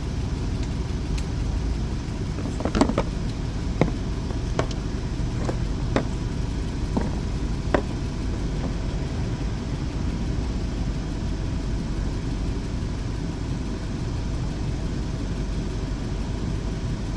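Jeep Wrangler engine idling steadily, with a handful of short, light clicks a few seconds in.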